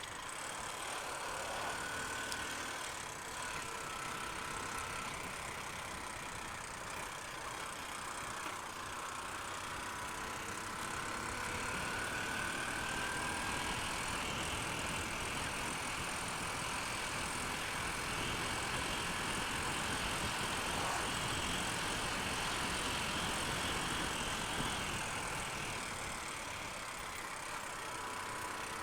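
Honda Unicorn single-cylinder motorcycle cruising steadily on the road, its engine running under a constant rush of wind on the rider's microphone.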